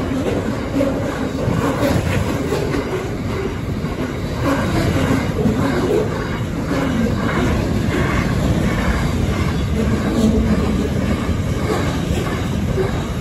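Container wagons of a passing intermodal freight train, their steel wheels rumbling and clicking steadily on the rails.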